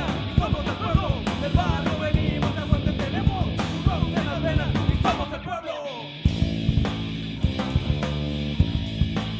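Punk rock band playing live with sung vocals, distorted guitars and drums. The singing drops out and the sound dips briefly about five seconds in, then the band comes back with held chords and drum hits.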